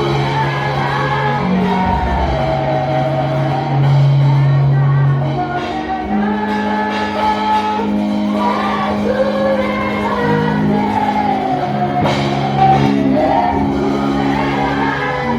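Church praise music: singing over long held low notes, with voices shouting out along with it.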